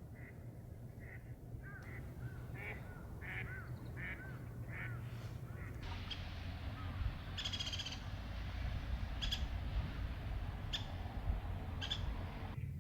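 A flock of swans calling in short repeated honks for the first half. About halfway through, a steady rushing noise comes in, with a few brief sharp high sounds over it, and the swan calls become fainter.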